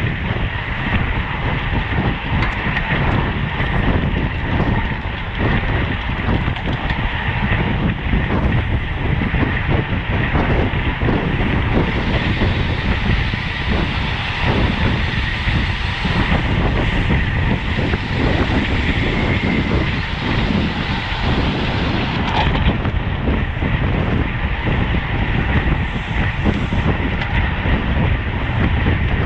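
Steady rush of wind and road noise on a microphone carried on a road bike riding at race speed.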